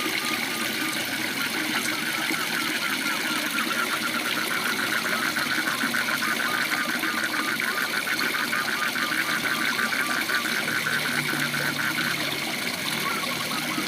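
Steady rush of a waterfall, with frogs calling over it in a long run of rapid, evenly pulsed calls.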